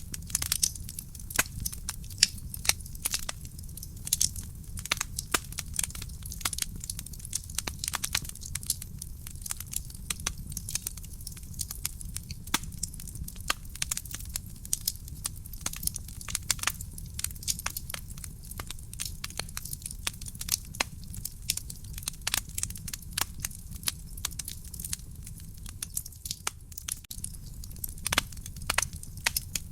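Real wood fire burning in a fireplace, crackling with frequent irregular sharp pops and snaps over a steady low rumble.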